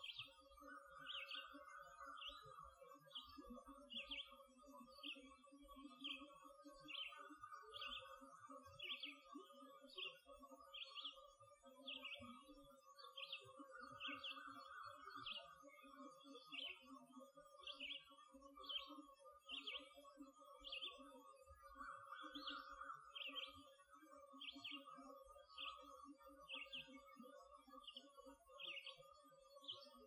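Faint dawn chorus: a songbird repeats a short high chirp a little more than once a second. Steadier lower tones run beneath it and swell now and then.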